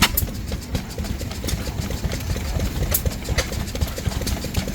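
Old stationary oil engine running at idle, with two sharp cracks, one at the start and one about three seconds in.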